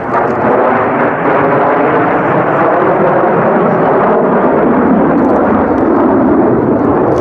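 Loud, steady jet-engine noise from Blue Angels jets flying past during the demonstration.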